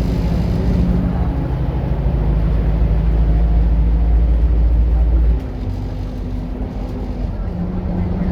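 Scania K230UB bus's diesel engine running under load, a loud low drone. About five seconds in it drops suddenly in loudness, and about two seconds later its note steps up in pitch as it pulls again.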